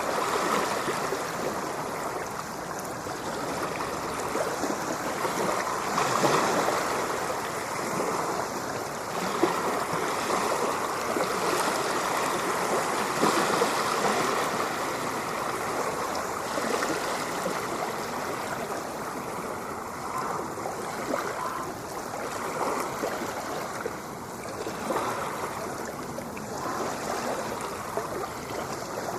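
Ocean surf: a continuous rush of breaking and washing waves that swells louder and eases off every few seconds.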